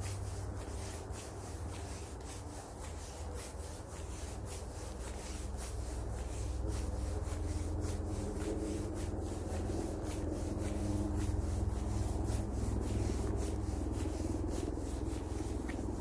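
Footsteps scuffing along a path at a walking pace, about two steps a second, over a steady low rumble.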